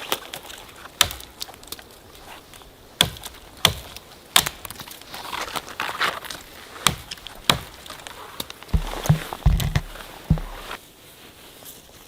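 Branches and brush being handled and broken: sharp cracks and knocks a second or two apart, with crunchy rustling between them and a cluster of dull low thumps about nine seconds in.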